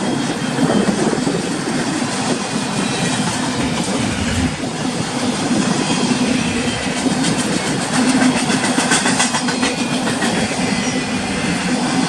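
Intermodal freight train cars rolling past with a steady rumble, their wheels clattering over rail joints in a quick run of clicks partway through.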